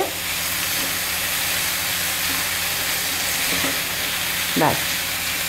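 Chicken strips, sliced carrots and capsicum sizzling steadily in oil in a frying pan as they are stir-fried with a wooden spatula.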